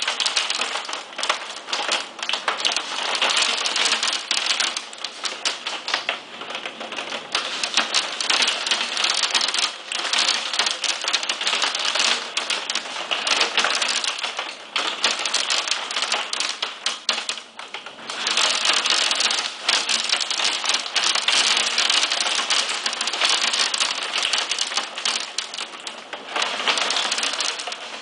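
Hail of 1–2 cm stones pelting down with rain, a dense rattle of many hard clicking impacts that eases briefly about two-thirds of the way through and then builds again.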